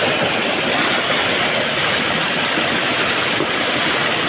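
Flooded mountain torrent (gadhera) in spate after heavy rain, a loud steady rush of fast-flowing water.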